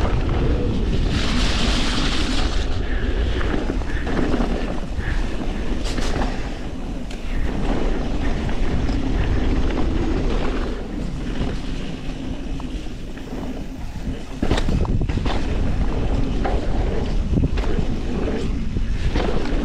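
Mountain bike descending a wet dirt trail, heard through an action camera with wind buffeting the microphone. Tyres run over the ground with steady low rumble, and sharp knocks and rattles come from the bike over bumps. A brief hiss comes about a second in, and the noise dips for a couple of seconds before jumping back up near the end.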